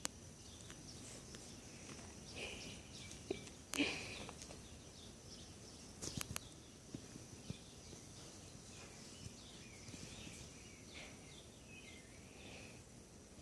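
Young kittens mewing: many short, faint, high-pitched cries through the whole stretch. Two sharp knocks, about four and six seconds in, are the loudest sounds.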